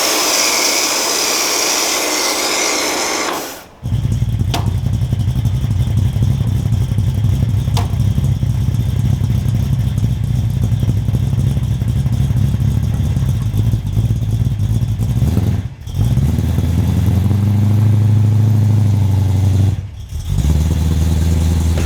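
A loud, even rushing hiss for about three and a half seconds, then a car engine running steadily, with two short breaks where the sound cuts off briefly.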